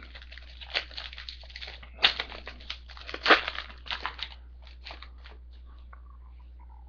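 A foil trading-card pack torn open and its wrapper crinkled, with the cards handled: irregular crackling and rustling for about five seconds that then stops.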